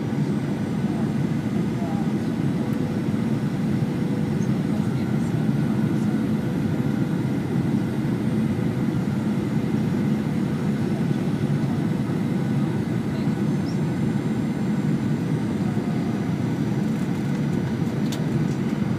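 Steady cabin noise of a Boeing 737-900ER in flight: a constant low rush of engines and airflow with a faint steady hum, heard from a window seat inside the cabin.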